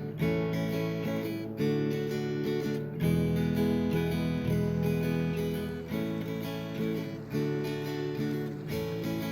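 Background music: strummed acoustic guitar, a new chord about every one and a half seconds.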